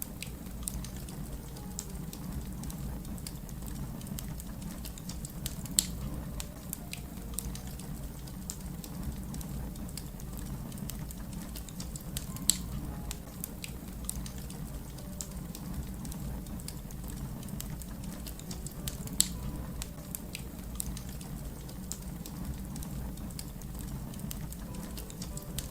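Wood fire crackling: a steady low rumble of flames under scattered small snaps, with three louder pops spaced several seconds apart.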